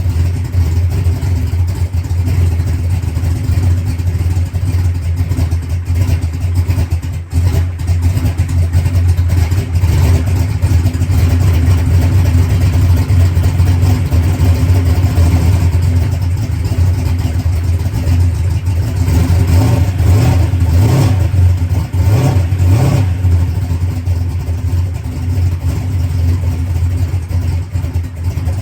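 Drag race car's engine idling steadily on its new Enderle fuel pump, holding good fuel pressure at idle. The engine note rises briefly a few times about two-thirds of the way through.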